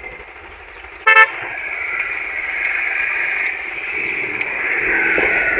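A vehicle horn gives one short beep about a second in, followed by steady vehicle and road noise that grows louder toward the end.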